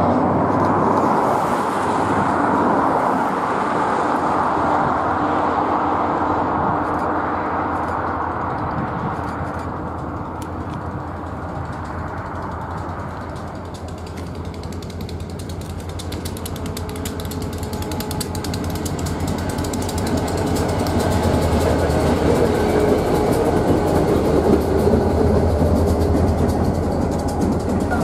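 Diesel freight locomotive approaching and passing on the rails: a steady low engine rumble under quick, dense clicking and clattering of wheels on track, growing louder over the second half as it draws level.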